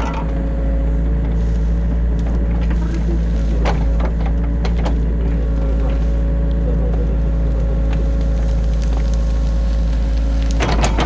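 Diesel engine of a New Holland Kobelco E50.2 mini excavator running steadily, heard from inside the cab, with a few sharp clicks and knocks. Louder clattering sets in near the end.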